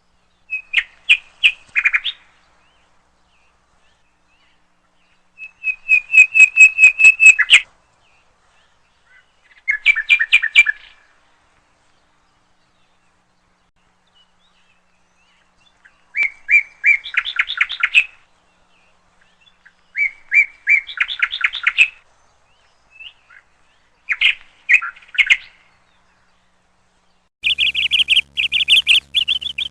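A songbird chirping in short phrases of quick repeated notes, with silent gaps between the phrases. Near the end the chirping runs on without a break and a faint low hum joins it.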